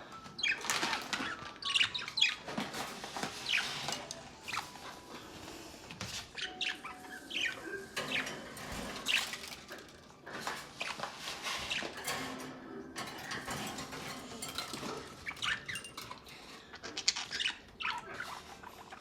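Caged pet bird calling in short, sharp chirps scattered irregularly, with some fluttering and rustling.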